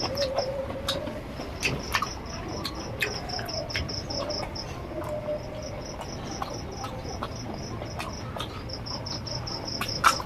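An insect chirping high and fast, about eight even pulses a second, in long runs with short breaks. Scattered sharp clicks fall throughout, most densely near the end.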